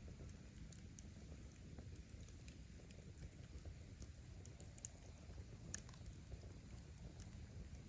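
Burning firewood crackling faintly, with scattered small pops over a low rumble of flame and two sharper snaps about five and six seconds in.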